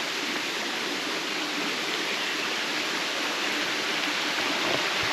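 Steady rushing hiss of running water at a river waterfall.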